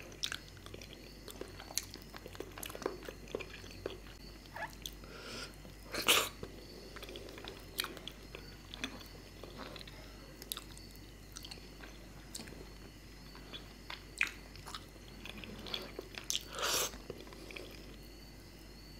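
Close-up eating sounds of fish curry and rice being chewed: a run of short, wet mouth clicks and smacks, with two louder bursts, one about six seconds in and one near the end.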